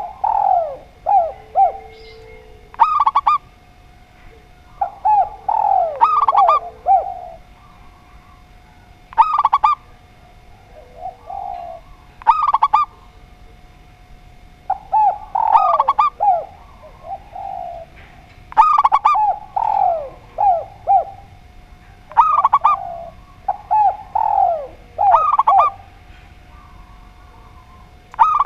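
Spotted dove and zebra dove cooing: short phrases of several sharp, falling notes about every two to three seconds. A faint steady tone runs behind.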